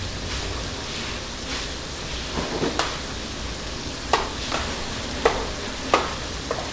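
Ground meat sizzling as it fries in a pan, with a utensil knocking and scraping against the pan several times in the second half as it is stirred.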